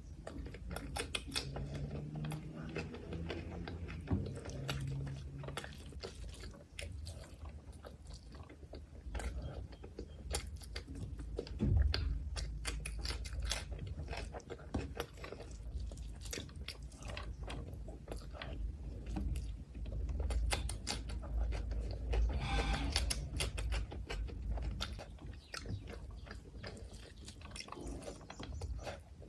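Close-miked chewing and wet mouth sounds of someone eating rice with mutton liver curry and raw cucumber slices by hand, with many small smacking clicks and occasional crisp crunches.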